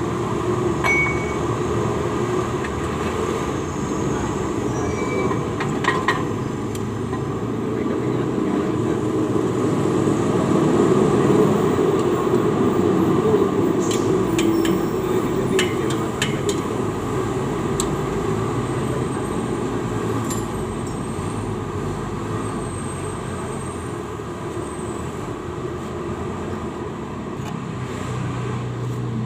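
A steady mechanical rumble, swelling slightly in the middle, with a few sharp light clicks about six seconds in and again around fourteen to sixteen seconds in.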